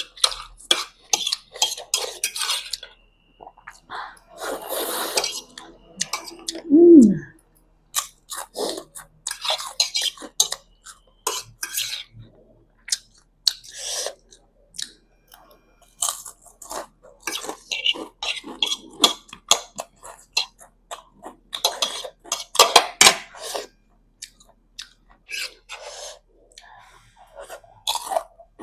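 Close-up eating sounds: a person chewing and slurping noodles, with irregular crunches and the clink of cutlery on the plate. About a quarter of the way in comes one short, louder hum that falls in pitch.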